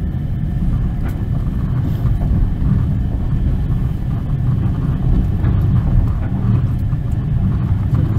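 Passenger train carriage in motion: a steady low rumble of the wheels on the rails, heard from inside the carriage.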